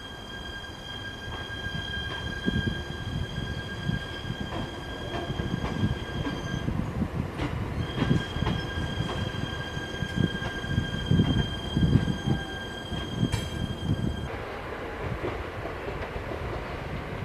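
Echigo Tokimeki Railway ET127 series electric train rolling slowly on yard track. Its wheels give a steady high-pitched squeal that breaks off for a moment about halfway and stops shortly before the end, over a low rumble and irregular knocking from the wheels on rail joints and points.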